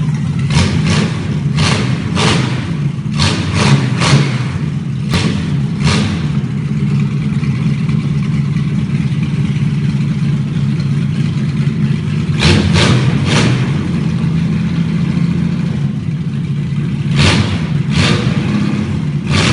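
Mercedes M123 straight-six petrol engine in a Unimog 404 running steadily, with clusters of short, sharp noise bursts over the engine sound near the start, about halfway through and near the end.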